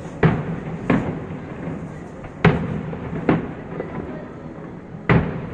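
Fireworks display: five sharp bangs of shells bursting at irregular intervals, each trailing off in an echo.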